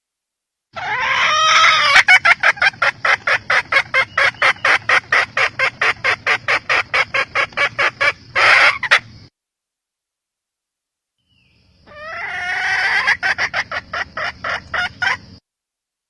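Red junglefowl hen calling: a rapid run of clucks, about five a second, ending in a longer note, then after a pause a second, shorter run of clucks.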